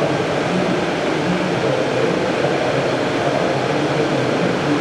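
Steady background noise of a busy exhibition hall: a constant wash of distant crowd chatter and hall ventilation, with no single sound standing out.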